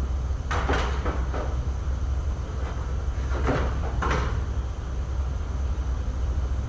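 A few short clunks and knocks in two small groups, about half a second in and again around three and a half seconds in, over a steady low hum.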